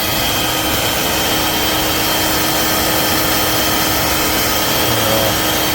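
Corded stick vacuum cleaner running steadily, its motor giving a constant high whine over the rush of air.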